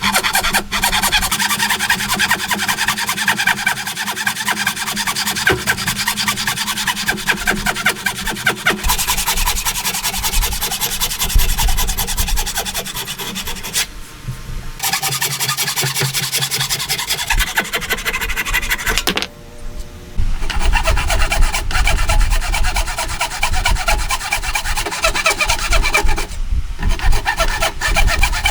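A hand tool working wood in rapid repeated scraping strokes, with brief pauses a few times.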